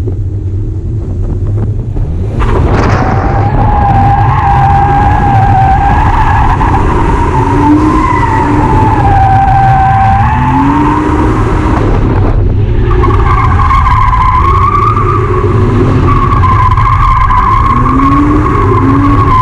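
A drifting car's tyres squealing in a long, wavering screech, with the engine's revs rising and falling beneath it over a heavy rumble. There is a brief break about twelve seconds in, after which the squeal carries on at a slightly higher pitch.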